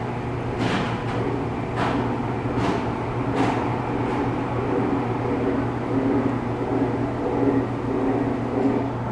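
Recorded steam locomotive exhaust from Duluth, Missabe & Iron Range 227, a 2-8-8-4 Yellowstone, played back over loudspeakers: several exhaust chuffs, about one every 0.8 seconds, fading out after about four seconds, over a steady low hum.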